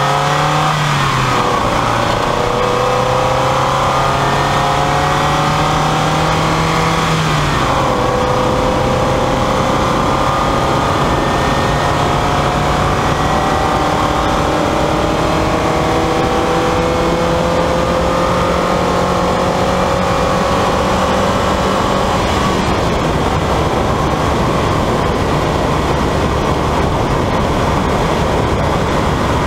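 A 1999 Mazda Miata's four-cylinder engine accelerating hard up through the gears. Its pitch climbs in each gear and drops at upshifts about a second in and about seven seconds in. Past twenty seconds, as the throttle comes off at highway speed, the engine tone fades under steady wind and tyre noise.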